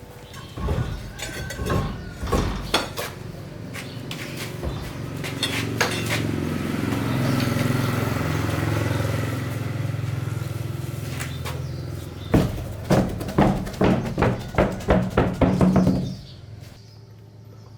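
Mechanical repair work: a motor hums steadily for several seconds, then about a dozen sharp knocks come quickly, getting faster, and stop suddenly.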